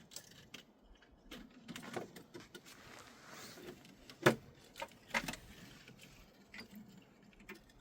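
Scattered clicks and light knocks at an irregular pace, the sharpest about four seconds in, with another a second later.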